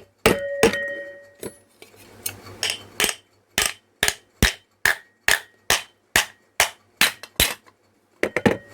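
A new ball bearing being tapped into a ceiling fan's aluminium housing: about sixteen light metal strikes, roughly two a second, the first few ringing briefly. This is the bearing being seated after the old dried-out bearings were removed.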